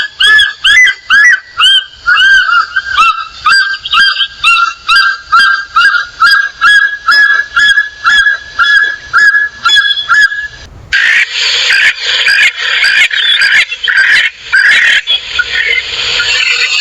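A bird calling a fast series of repeated, arching whistled notes, about three a second. About eleven seconds in it gives way abruptly to a loud, dense chorus of harsh bird calls.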